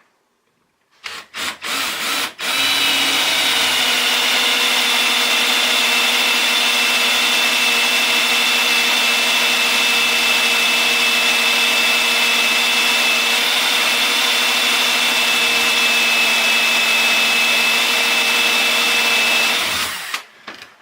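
A few short knocks, then an electric drill running steadily with a high whine as it bores a hole about 1/4 inch through a block of aluminum. It stops shortly before the end.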